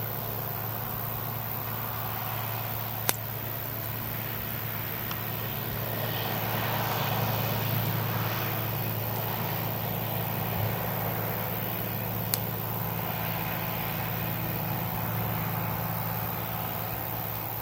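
Campfire burning, with two sharp pops from the wood, one about three seconds in and another about twelve seconds in. A soft rushing swells and fades twice over a steady low hum.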